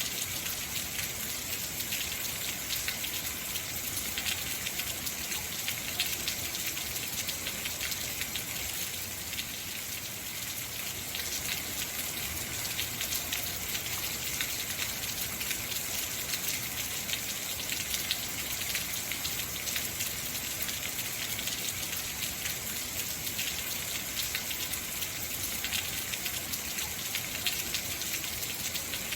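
Heavy rain falling steadily, a dense even hiss of many close drop hits.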